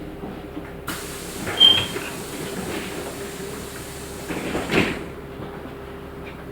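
Pneumatic doors of a LiAZ-6213.65 articulated bus working: a sudden hiss of air starts about a second in, with a short high squeal, and ends near the end of the door's travel with a knock about five seconds in, over the bus's steady hum.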